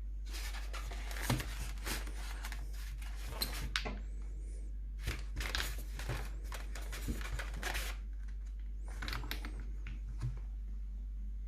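Packaging being handled: plastic and paper crinkling and rustling in three stretches, with small clicks and knocks, over a steady low hum.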